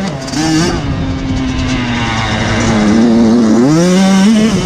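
Motocross bike engine revving hard, its pitch climbing and dropping with throttle and gear changes, holding fairly steady for a second or two in the middle.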